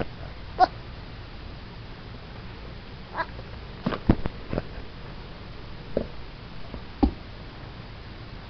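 Baby goat making short, duck-like calls, about six of them at irregular intervals, the loudest about half a second in.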